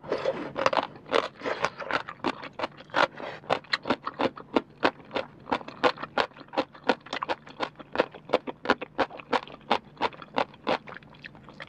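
Close-miked crunching of crisp, soaked celtuce stem (rau tiến vua) being bitten and chewed: rapid crisp crunches, about four or five a second, thickest just after the first bite.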